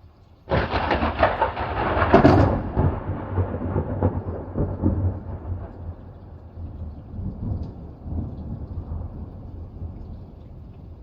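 Thunderclap: a sudden loud crack about half a second in, sharpest around two seconds, followed by a long rumble that slowly fades away.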